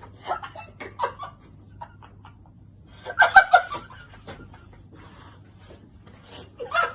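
A person laughing in short bursts, loudest about three seconds in.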